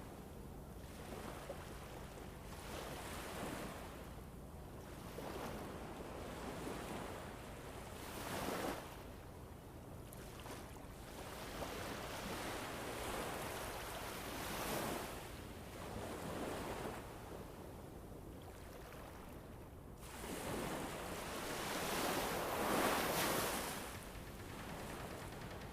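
Recorded ambient soundscape of rushing noise that swells and fades in slow surges every few seconds, loudest near the end.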